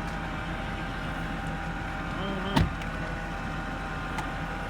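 Engine idling steadily, with one sharp knock about two and a half seconds in.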